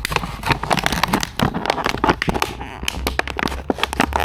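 Rapid, irregular crackling and clicking as the tyre plug repair kit's tools and packaging are handled.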